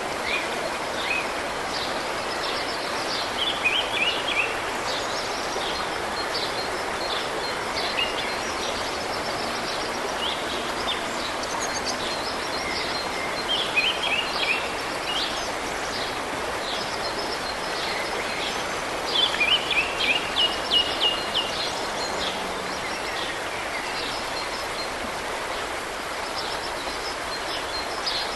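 Steady rush of running water from a mountain river, with a songbird breaking in with short runs of quick chirps, loudest in three bursts.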